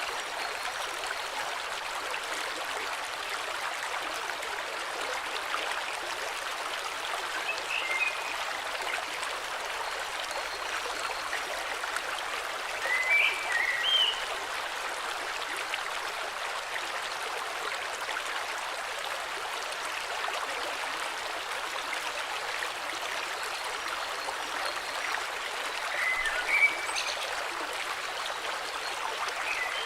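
A river flowing steadily, with a few short bird calls over it, the clearest about halfway through and again near the end.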